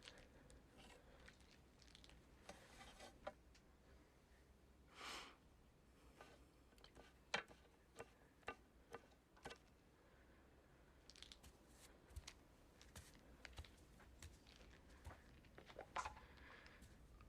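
Near silence, with faint rustling and scattered small clicks and taps.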